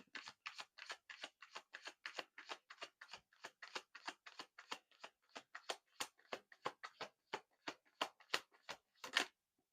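A deck of oracle cards being shuffled by hand: a quick, even run of small card slaps, about four a second, which stops shortly before the end.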